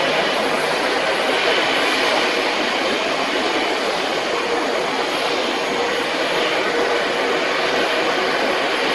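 Jet airliner engines running: a loud, steady rush of noise that holds level without rising or falling.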